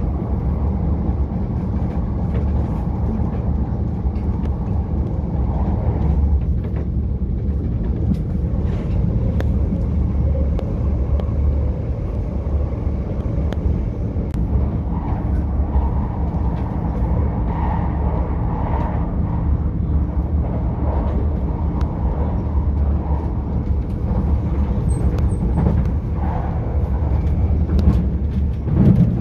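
A moving electric passenger train heard from inside the carriage: a steady low rumble of wheels and running gear on the rails, with faint scattered clicks and rattles.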